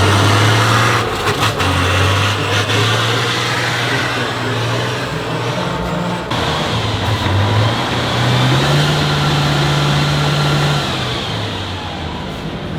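Heavy off-road trial truck's engine working under load, its revs rising and falling: it climbs about eight and a half seconds in, holds, and eases off again a couple of seconds later.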